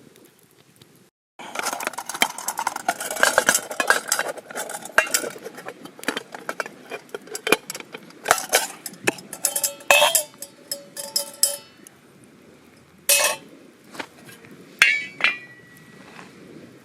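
Metal cookware and utensils clinking and clattering, starting abruptly after a brief silence about a second in, with a few single ringing strikes near the end.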